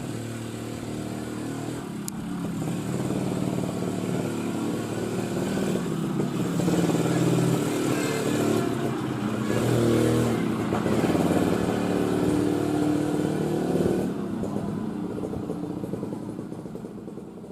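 An engine running, with a low pitched hum that shifts in steps, growing louder toward the middle and fading near the end.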